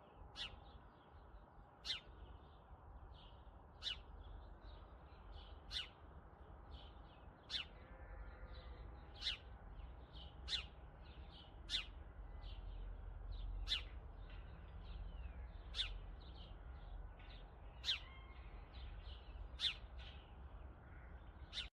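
Faint wild birds calling: a short, sharp call repeats about every one and a half to two seconds over softer, scattered chirps.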